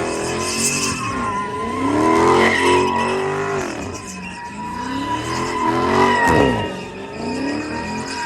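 Car doing donuts: the engine revs in repeated rising and falling swells about every two seconds over a steady tire squeal.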